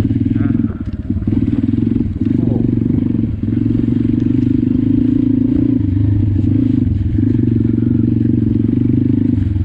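Pit bike engine running under throttle as the bike is ridden, holding a fairly steady pitch with a few brief dips as the throttle is eased off and reopened.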